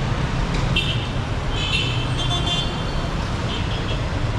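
Busy city street traffic: a steady rumble of engines with several short, high-pitched car horn toots.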